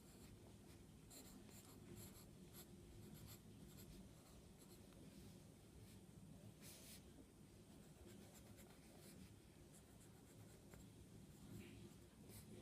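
Faint strokes of a drawing tool scratching across paper, in short irregular scrapes with a longer stroke about halfway through.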